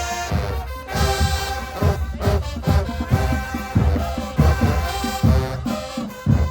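High school marching band playing: brass over bass drum hits about twice a second.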